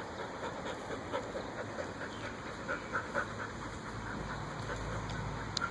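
A dog panting fast in short, even puffs, about three or four a second, the stress panting of a dog frightened by fireworks. A low rumble comes in about two-thirds of the way through, and there is a single click near the end.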